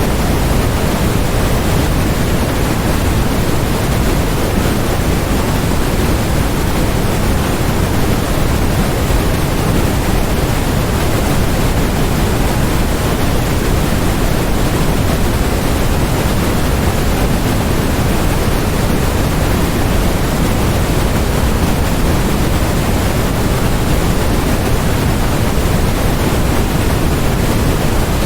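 Steady, unchanging generated noise: an even hiss across all pitches, with its weight in the lows.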